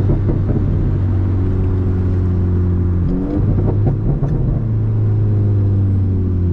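Hyundai Genesis Coupe's turbocharged 2.0-litre four-cylinder pulling under throttle, its note breaking briefly about three seconds in, like a gear change, then pulling steadily again. It is a boost run to see whether a wastegate that won't open will crack.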